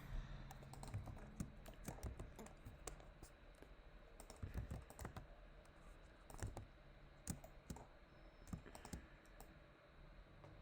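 Faint, irregular computer keyboard and mouse clicks, a few clicks a second, from hotkeys pressed while modelling in Blender.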